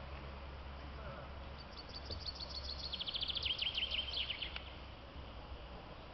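A songbird singing one fast, trilled phrase of high notes. It starts about one and a half seconds in, lasts about three seconds and drops lower in pitch towards the end, over a steady low background rumble.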